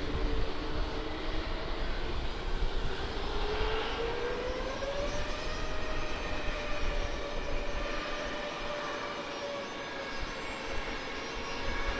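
Jet engines of a Boeing 737 MAX 8 (CFM LEAP-1B turbofans) spooling up for the takeoff roll: a steady jet noise with a whine that rises in pitch about four seconds in, then holds.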